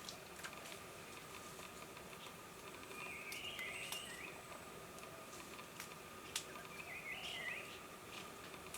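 Faint outdoor ambience with two short, twittering bird calls, one about three seconds in and another about seven seconds in, and a few scattered light clicks.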